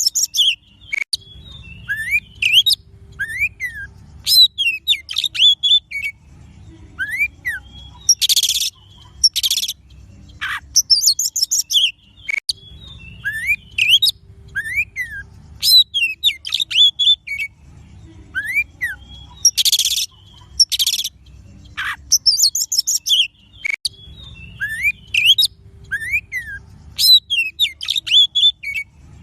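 Oriental magpie-robin (kacer) song played as a lure recording: varied whistled phrases with rising-and-falling slurred notes and short harsh rasping bursts. The sequence repeats about every eleven seconds, over a faint low rumble.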